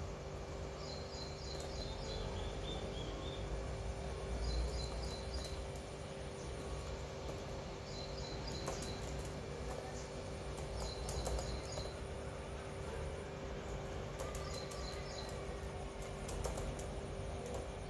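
A bird calling in five short bursts of rapid high chirps, a few notes each, roughly every three to four seconds, over a steady low hum and a few faint clicks.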